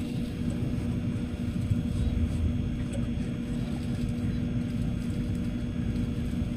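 Tokaido Shinkansen running at speed, heard inside the passenger cabin: a steady low rumble with a constant hum, swelling slightly about two seconds in.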